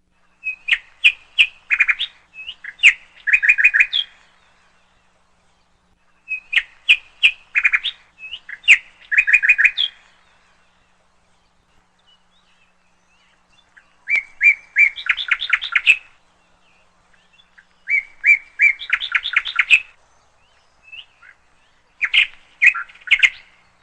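A songbird singing in repeated phrases of quick, high chirps. Each phrase lasts one to two seconds, and they come back every few seconds with pauses in between.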